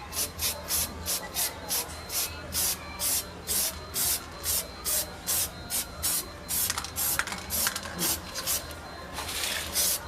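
Rapid, even back-and-forth abrasive strokes, about three a second, typical of hand sanding or rubbing down a part. Near the end the strokes run together into a longer hiss.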